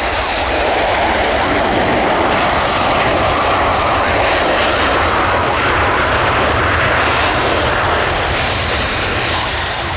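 Embraer Phenom 300 business jet's twin turbofan engines during its landing: a loud jet rush with a thin steady high whine, swelling towards the middle and easing off near the end.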